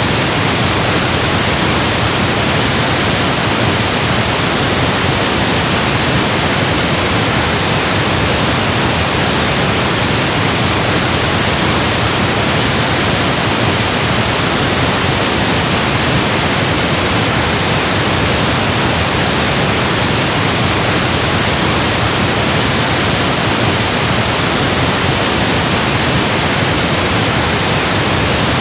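Steady electronically generated pink noise: an even, unchanging hiss across the whole range of pitch.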